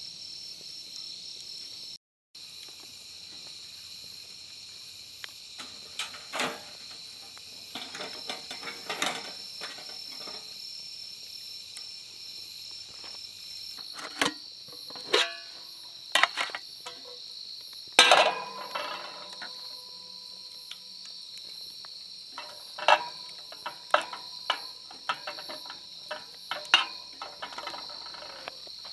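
Insects chirring steadily in the background, with scattered sharp clicks and knocks through it, the loudest about eighteen seconds in.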